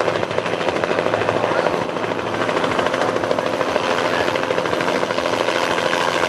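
Agusta-built Bell 206B JetRanger III helicopter flying in on approach, with the fast, steady chop of its two-bladed main rotor over the turbine's running sound.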